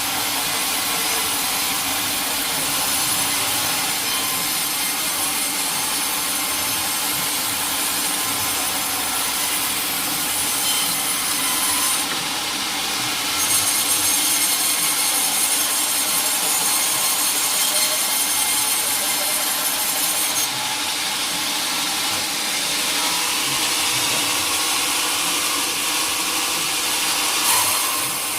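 Sawmill saw cutting steadily through a teak log, a continuous hissing rasp of blade in wood that shifts slightly in its high hiss a few times.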